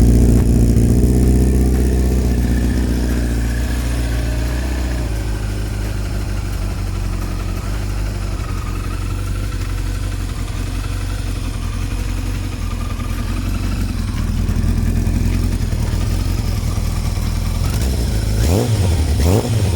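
1988 Kawasaki GPZ900R's inline-four engine running smoothly through an exhaust muffled by a homemade brass decibel killer. It runs a little higher and louder at first and settles to a steady idle about five seconds in, then swells slightly again near the end.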